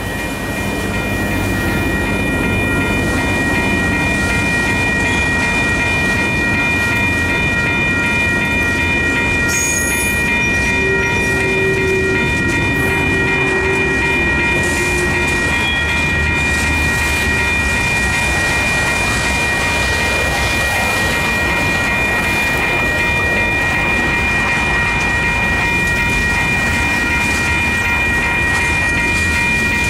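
Union Pacific freight train rolling past, its locomotive followed by flatcars and boxcars: a steady loud rumble and clatter of steel wheels on rail, building over the first couple of seconds, with a steady high ringing tone over it.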